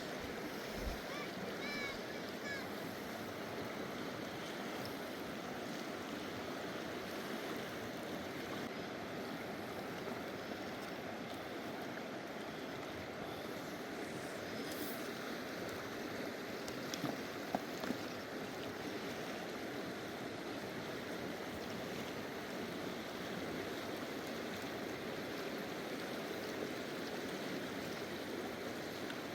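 A full-flowing mountain river rushing steadily, an even wash of water noise. A few light knocks come about halfway through.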